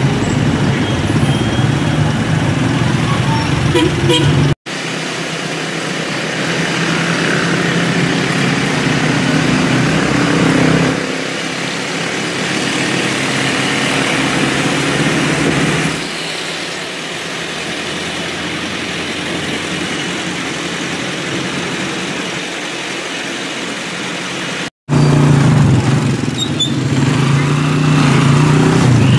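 Motor tricycle engine running steadily while riding through town traffic, with road and wind noise. The sound breaks off abruptly twice, about four and a half seconds in and again near twenty-five seconds, changing each time; the engine hum is strongest in the first and last stretches.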